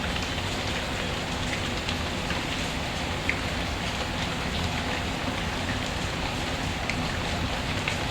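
Steady rainfall with the small, scattered crackles of a wood fire; one slightly louder pop about three seconds in.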